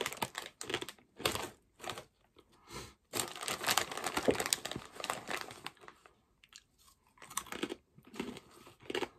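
Pork scratchings being bitten and chewed close to the mouth: hard, crisp crunching in irregular runs with short pauses, thickest about three to five seconds in.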